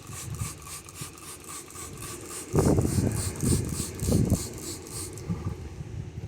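A brush scrubbing the inside of a water trough with quick back-and-forth rasping strokes, about four or five a second, fading out near the end. A few louder low rumbles come through about halfway in.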